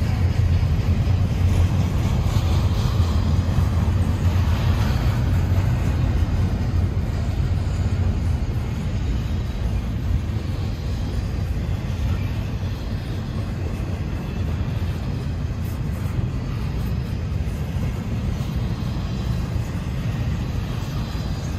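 Freight train cars rolling past: a steady low rumble that eases slightly in the second half.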